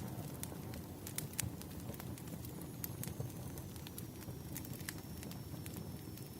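Wood fire burning: a steady low rumble of flames with irregular sharp crackles and pops from the burning logs, and a faint thin high whine that comes in partway through.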